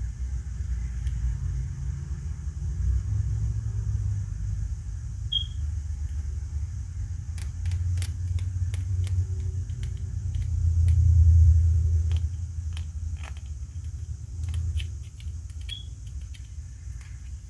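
Low rumble, loudest about eleven seconds in, with scattered light clicks and taps from the middle of the stretch onward, as of small plastic toy parts and packaging being handled.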